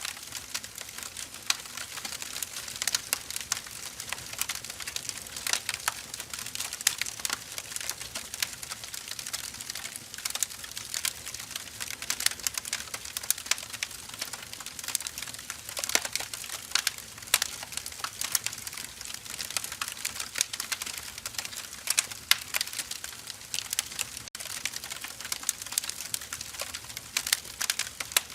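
Wood fire crackling: irregular sharp pops and snaps from the burning logs over a steady hiss.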